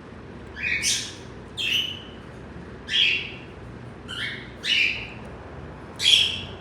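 A bird giving short, sharp squawking calls over and over, about seven in all, roughly one a second, over a faint steady background hum.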